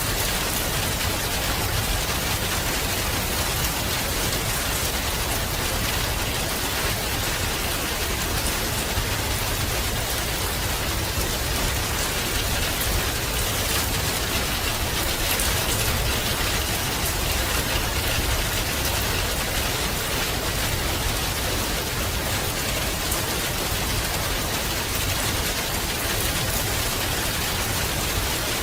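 Steady rain falling and pattering on a surface, an even hiss with many fine drop ticks and a low rumble underneath, unchanging throughout.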